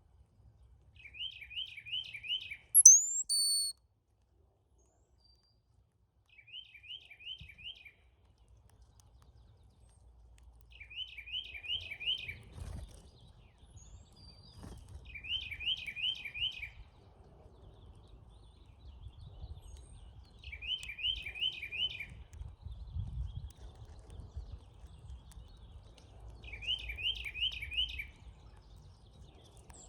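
Birdsong at a feeder: a short phrase of four or five quick notes repeated about every five seconds, and one loud, very high rising whistle about three seconds in, typical of a brown-headed cowbird's song. A faint low rumble runs underneath.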